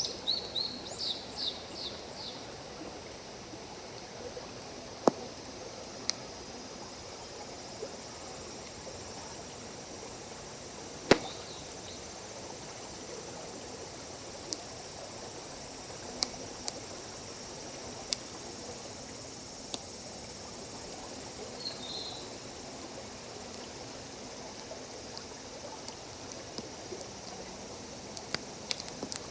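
Wood campfire crackling with scattered sharp pops over the steady rush of a forest stream. A bird chirps a quick run of notes at the start and calls once briefly about twenty-two seconds in.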